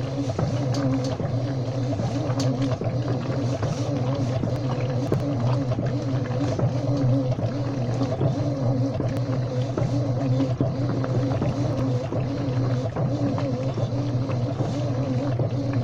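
Washing machine running: a steady motor hum whose pitch wavers slightly, with small ticks and rattles over it.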